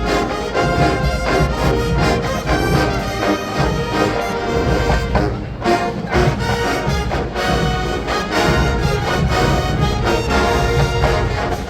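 Marching band playing an upbeat funk arrangement, with brass leading over drumline percussion.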